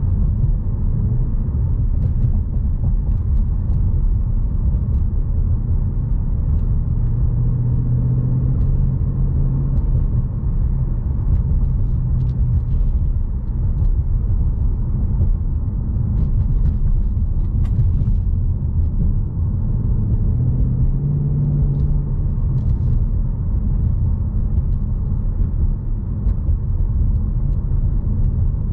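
2020 Ford Mustang GT's 5.0-litre V8 running at low revs while cruising, heard from inside the cabin over a steady road and tyre rumble. The engine note swells briefly twice, about a third of the way in and again about three quarters through.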